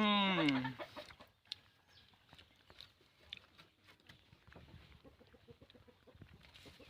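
A rooster's crow: one long, loud call that holds its pitch and then falls, ending less than a second in. Faint scattered clicks and rustles follow.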